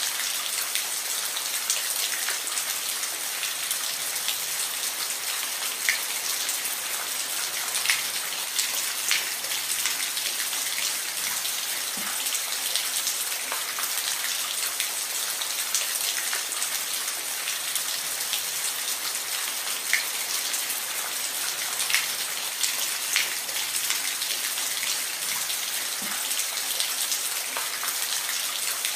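Steady rain, an even hiss with individual drops ticking at irregular moments on a hard surface.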